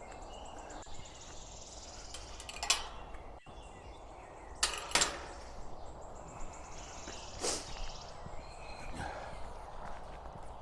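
A kissing gate being pushed through: a few sharp knocks and clanks of the gate against its frame, spread over several seconds, with footsteps and steady low background noise.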